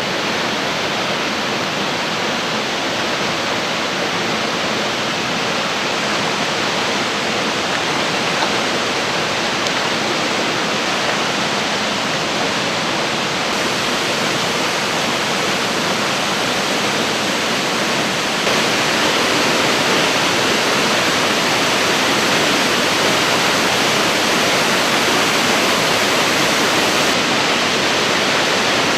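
Nidan-daki waterfall in Sandankyo gorge: a steady rush of falling water, a little louder from about two-thirds of the way in.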